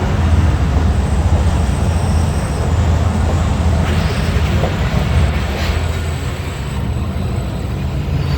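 Pakistan Railways ZCU-30 diesel-electric locomotive idling with a steady low hum, with two short hissing bursts about four and five and a half seconds in.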